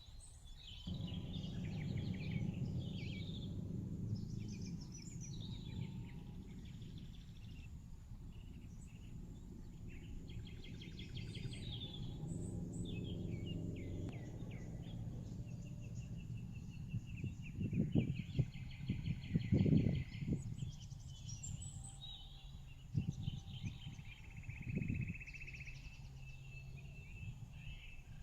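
Outdoor ambience: several small birds chirping and trilling over a steady low rumble, with a few louder low bumps in the second half.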